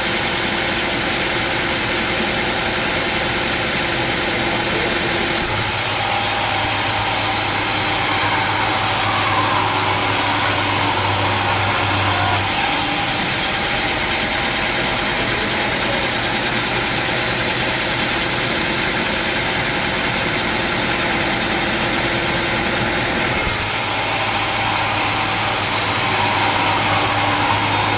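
Sawmill machinery running steadily, an engine-like drone. The sound changes abruptly three times, about 5, 12 and 23 seconds in.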